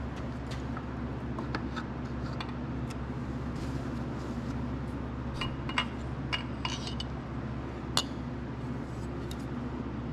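Scattered light metallic clicks and clinks of small engine parts being handled: the piston and rings just taken out of a Kohler K241 single-cylinder engine. Some clinks ring briefly a little past the middle, and there is one sharper click near the end.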